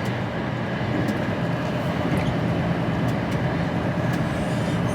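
Cab noise of an HGV lorry driving at motorway speed: a steady engine drone under even road and tyre noise on a wet road.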